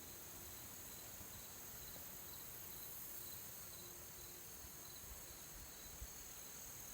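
Faint, steady insect chirping: a continuous high-pitched drone with a softer chirp pulsing several times a second, over light background hiss.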